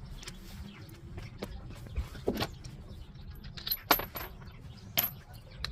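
Metal parts being handled, giving a few sharp clinks and knocks over a steady low rumble, the loudest about four seconds in.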